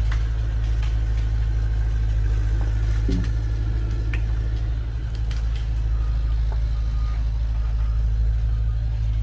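Old GMC logging truck's engine running steadily with a heavy low rumble, with a few faint clicks and knocks over it.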